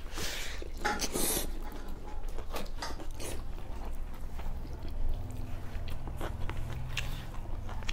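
Close-up chewing of a mouthful of rice and pork, with irregular wet smacks and small clicks of eating with the hands.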